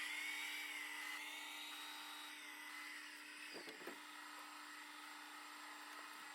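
G-scale model train running: a steady hum under a higher electric-motor whine that wavers in pitch and fades, with a few clicks about three and a half seconds in.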